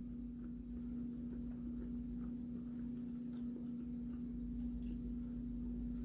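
Quiet eating sounds: a few faint, soft clicks of chewing and sucking on braised chicken feet eaten by hand, over a steady low hum.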